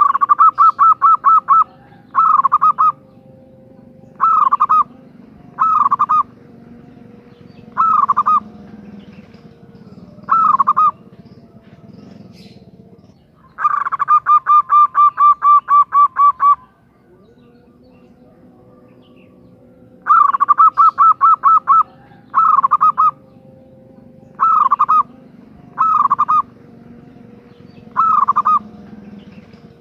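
Female zebra dove (perkutut) calling to attract a male: short, rapid trilled phrases repeated about every two seconds. One longer trill of about three seconds comes midway, and another of nearly two seconds about two-thirds of the way through.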